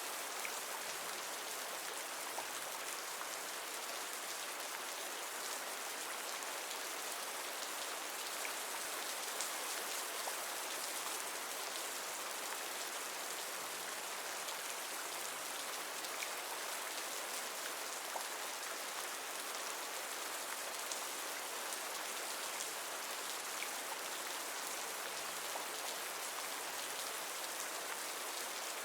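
Steady rain, an even hiss of drops falling on a surface, with faint scattered drip ticks.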